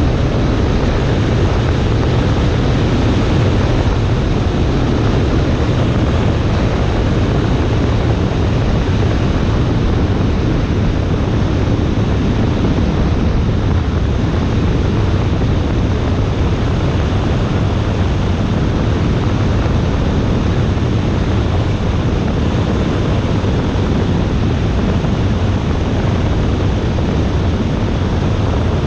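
Cessna 140A single-engine light airplane in flight: a steady, loud engine and propeller drone under rushing wind noise on the microphone, with no change in power.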